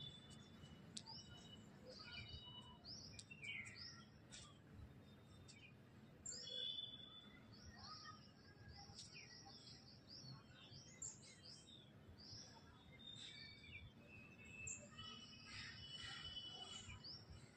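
Faint chirping of birds, many short calls and twitters in quick succession, busier in the last few seconds.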